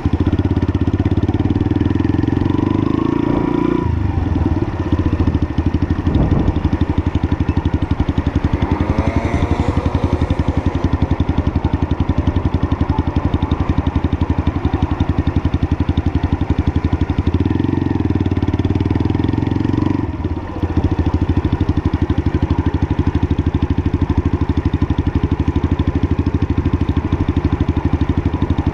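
Lexmoto LSM 125 motorcycle's single-cylinder 125cc engine running under way, its note shifting a few times, with a brief drop in level about twenty seconds in.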